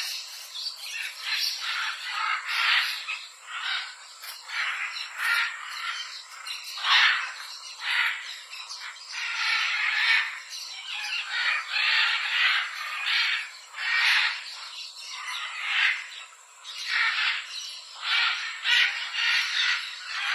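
Parrot squawking again and again: a long run of short, scratchy calls with brief gaps between them.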